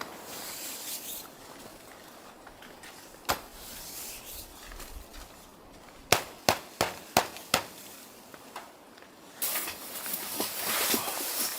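A single sharp knock, then a quick run of five sharp knocks, about three a second. A rough hissing, rustling noise rises near the end.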